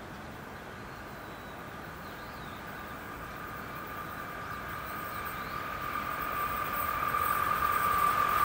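JR West 381 series electric express train approaching on the rails, its running noise growing steadily louder, with a steady high-pitched tone coming through more strongly as it nears.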